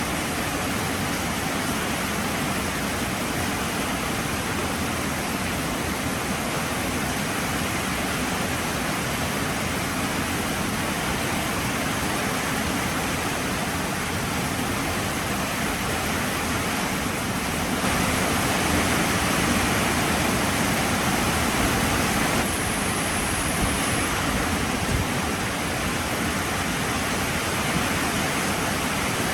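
Heavy rain pouring steadily, a dense, even hiss that swells a little louder for a few seconds about two-thirds of the way through.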